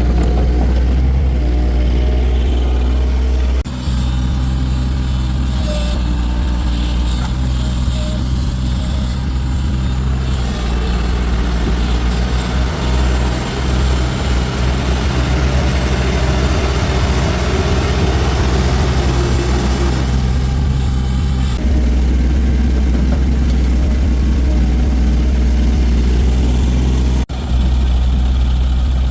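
A vehicle engine running steadily with a deep, even hum. For about ten seconds in the middle it turns rougher and noisier.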